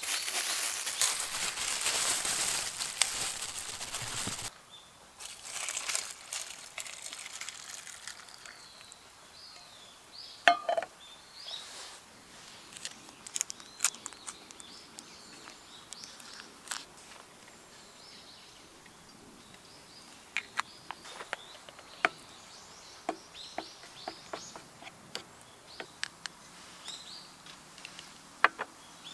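Outdoor ambience with birds chirping now and then and scattered sharp clicks and knocks. It opens with a few seconds of loud hiss that stops abruptly.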